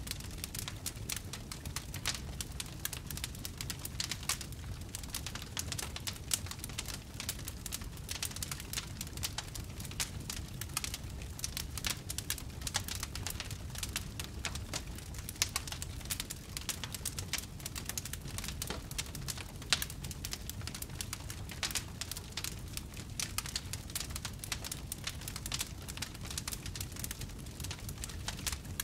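Wood fire in a fireplace crackling: a dense, continuous run of small crackles and pops over a low steady rumble, with a few sharper pops standing out.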